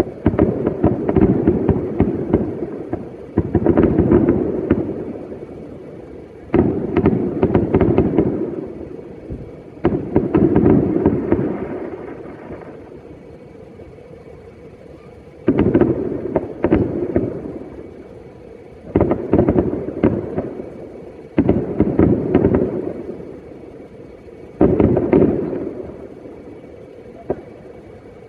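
New Year fireworks going off in a series of volleys, each a cluster of bangs and crackles that dies away over a couple of seconds. The volleys come about every three seconds, with a longer lull around the middle.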